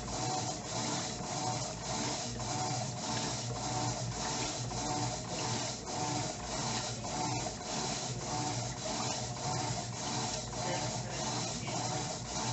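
Electrolux Turbo Economia LTE09 top-loading washing machine agitating a load of clothes in water during its main wash, churning back and forth in an even rhythm of about two strokes a second.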